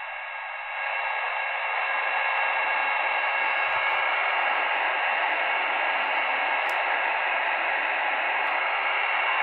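Sony ICF-SW7600GR portable radio on longwave at 388 kHz, its speaker giving steady static with a few faint steady tones mixed in. The static grows louder about a second in as the volume is turned up. The owner puts the noise down to a transformer left switched on nearby.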